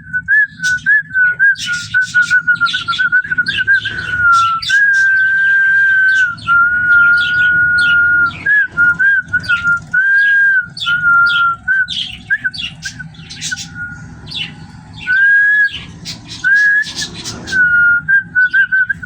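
Pet parrots chirping rapidly in short, sharp calls over a nearly continuous, wavering whistle made of long held notes.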